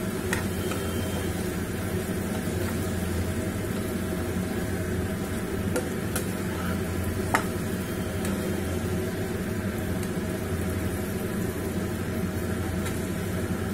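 Chicken pieces and onions frying in oil in a non-stick pan, sizzling steadily while a metal spatula stirs them, with a few sharp clicks of the spatula against the pan, the loudest about seven seconds in.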